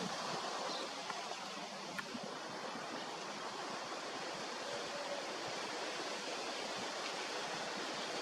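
Steady rushing noise, with a faint click about two seconds in.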